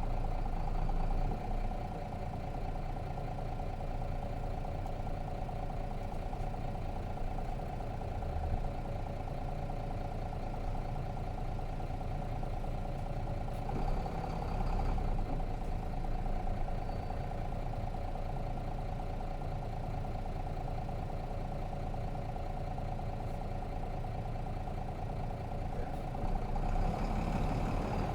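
Nissan Diesel FE6 straight-six diesel engine of a city bus idling steadily, heard from inside the cabin; it picks up briefly about halfway through and rises again near the end.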